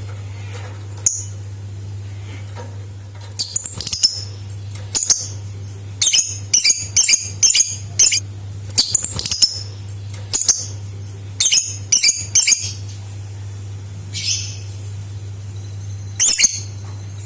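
Lovebird chirping in scattered clusters of short, sharp, high-pitched calls, with pauses between groups, over a steady low electrical hum.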